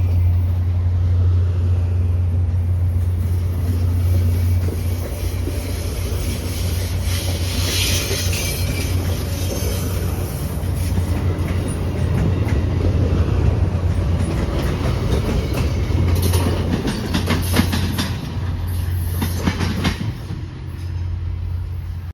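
Train passing on the rails, its wheels clicking over the rail joints in clusters, over a steady low rumble.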